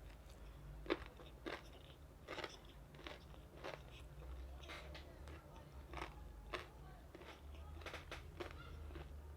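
Close-up biting and chewing of crispy double-fried chicken skin: irregular loud crunches and crackles, the sharpest about a second in.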